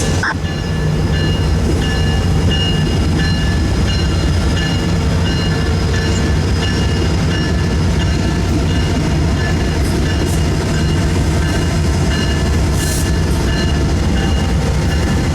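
Freight train rolling past with a steady, loud low rumble, with faint intermittent high squeals from the wheels.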